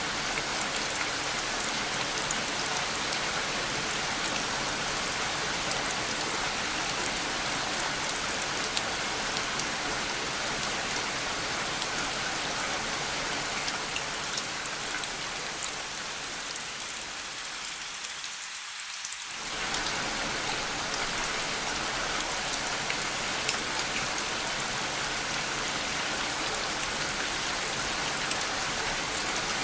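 Steady rain falling, an even hiss with fine drop ticks. A little past halfway its lower, fuller part thins away for a few seconds and then comes back abruptly, like a seam in a looped recording.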